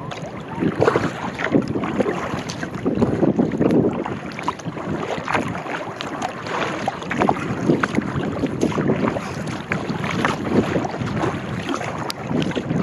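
Sea kayak being paddled on choppy water: paddle blades dipping and splashing, water lapping against the hull, with wind buffeting the microphone.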